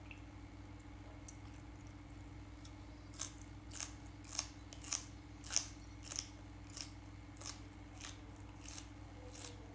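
Close-up chewing of crunchy lotus-stem salad: a quiet start, then about a dozen crisp crunches at a steady pace of roughly one and a half per second. A low steady hum runs underneath.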